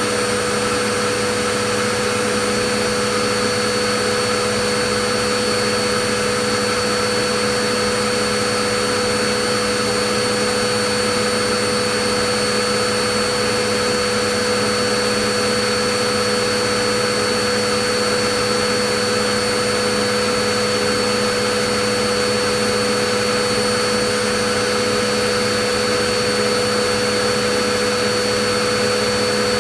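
Vacuum cleaner running steadily: a constant rushing hiss with an unchanging motor whine.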